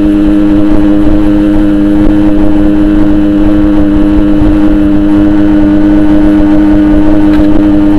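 Yamaha RX-King 135cc two-stroke single-cylinder engine running through a Boban aftermarket exhaust, loud and steady at an unchanging engine speed while the bike is ridden.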